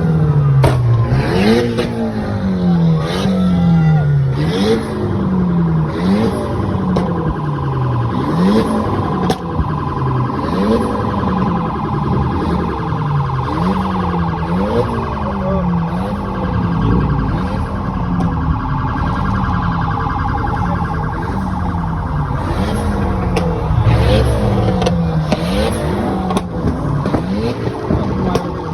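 Car engines revving again and again, each rev jumping up and sliding back down, with a siren-like wail sounding through the middle stretch.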